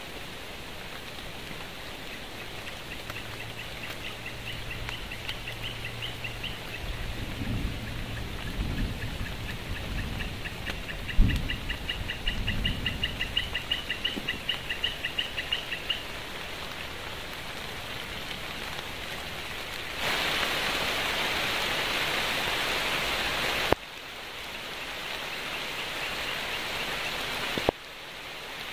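Steady rain falling. A rapid, evenly pulsed high-pitched call runs through the middle stretch, and there are a few low thumps, the loudest about 11 seconds in. The rain noise swells for a few seconds near the end, then drops off abruptly.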